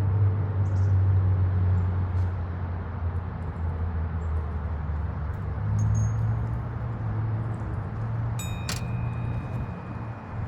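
A steady low hum, with a sharp metallic clink about eight and a half seconds in that rings on briefly, like a hand tool striking metal while bolts are started on an engine.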